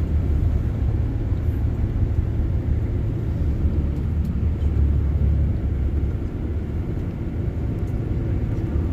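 Steady low rumble of a vehicle's engine and road noise heard from inside the cabin while driving.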